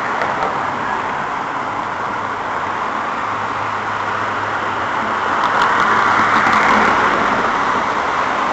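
Steady road traffic noise, swelling as a vehicle passes about six seconds in.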